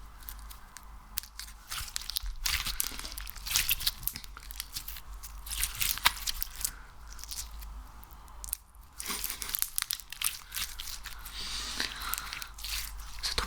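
Close-miked crackling and crunching of sticky, crunchy ASMR material (slime or wax) being squeezed and worked. It comes in dense clusters of small crackles with short lulls between them.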